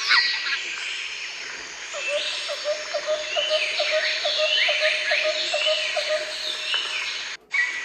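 Jungle ambience with many birds calling over each other in sliding whistles and chirps. A lower call repeats about four times a second through the middle, and the sound cuts out briefly near the end.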